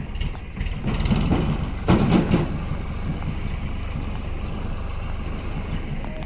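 Tractor engine running with a steady low rumble, swelling louder for a moment about two seconds in.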